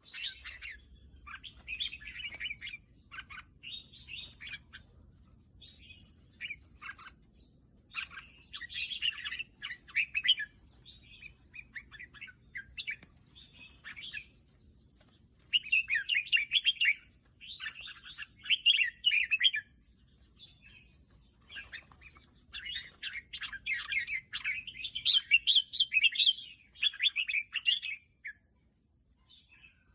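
Red-whiskered bulbul singing: bursts of quick, chirping phrases separated by short pauses, with a brief lull near the end.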